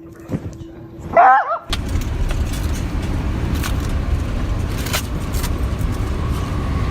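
A dog barks once about a second in. Then a steady low rumbling noise sets in suddenly and continues, with a few faint clicks.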